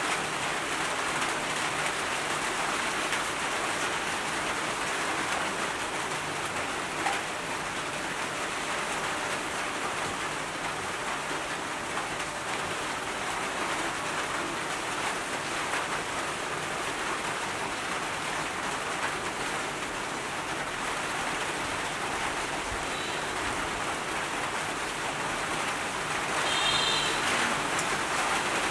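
Steady rain falling on the leaves and flowerpots of a garden.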